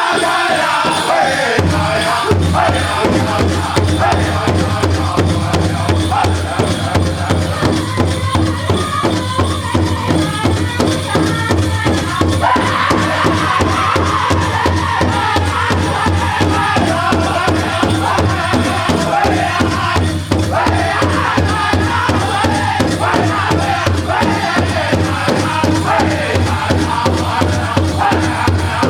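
Powwow drum group singing together over a steady, fast beat on a big drum, which starts about two seconds in. The song is for the men's chicken dance.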